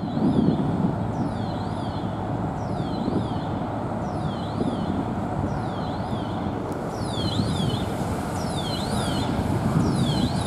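VL10 electric locomotive and its passenger train rolling slowly alongside the platform, a steady low rumble. Over it, a high chirp repeats about every one and a half seconds.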